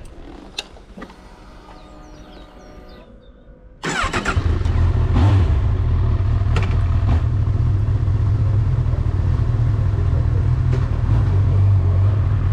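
Honda CB1000R's inline-four motorcycle engine starting suddenly about four seconds in, then running steadily, after a few faint clicks.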